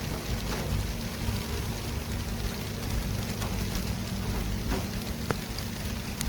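City traffic ambience: a steady low rumble of traffic under an even, rain-like hiss, with a few faint scattered ticks.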